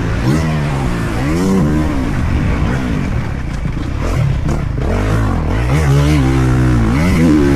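Motocross dirt bike engine revving up and falling off about once a second under the rider's throttle. It holds steadier and lower past the middle, then climbs again near the end.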